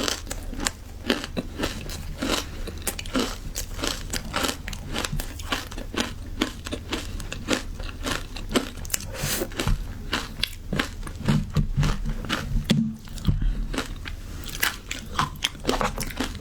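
Matcha ice being bitten and chewed close to the microphone: a quick run of crisp crunches, several a second.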